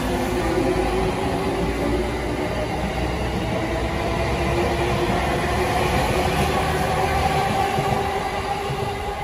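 Electric commuter train of the JR Musashino Line running past on the track: a steady rumble of wheels on rails with a pitched motor whine over it.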